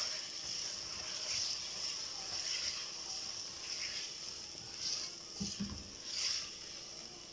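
Chicken and chopped tomatoes sizzling in oil in an aluminium pot as a spatula stirs and turns them, the sizzle swelling briefly with each stroke.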